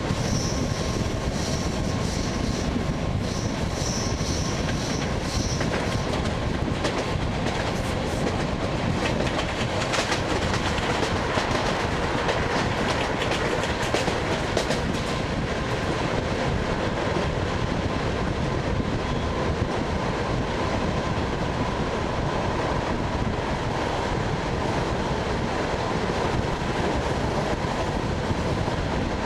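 ED9MK electric multiple unit running along the track, heard from inside the car: a steady rolling rumble with the wheels clicking over rail joints, the clicks most frequent in the first half.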